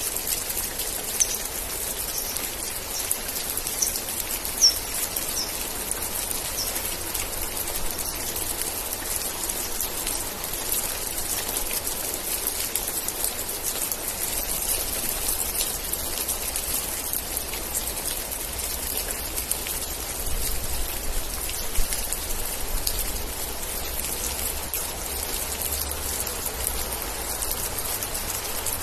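Steady heavy rain falling, a dense patter of drops with a few louder single drop hits. A handful of short high chirps sound in the first several seconds.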